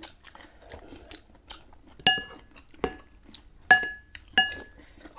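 Cutlery clinking against a dish during a meal: four clear ringing clinks, all with the same ring, from about two seconds in, with softer clicks and taps between them.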